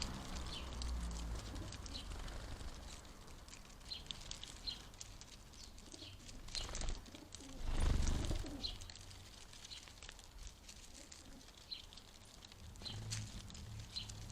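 A pigeon cooing low near the start and again near the end, with scattered short high chirps from small birds. There is a louder rush of noise about eight seconds in.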